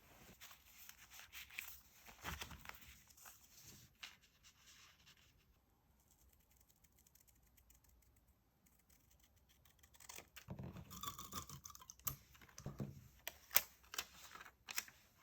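Paper and stickers handled close to the microphone during diary decorating: soft rustling and scratching, a quiet pause in the middle, then more rustling with several sharp little taps and clicks near the end.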